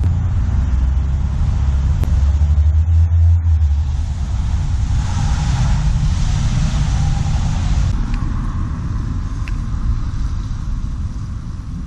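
Road traffic: a steady low rumble with a passing car's tyre hiss swelling and fading in the middle.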